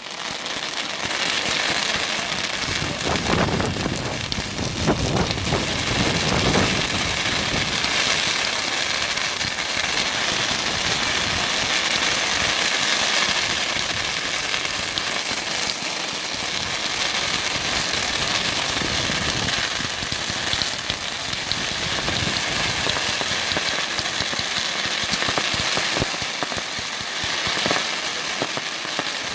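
Fireworks going off in a dense, continuous crackle like heavy rain, with heavier low bangs a few seconds in.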